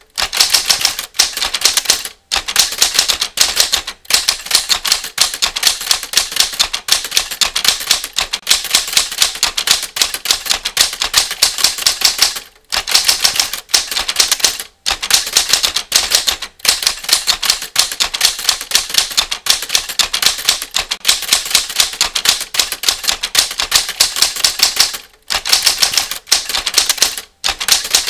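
Typewriter keystrokes: a fast, even run of sharp key clacks, many a second, broken by short pauses every few seconds as words and lines end.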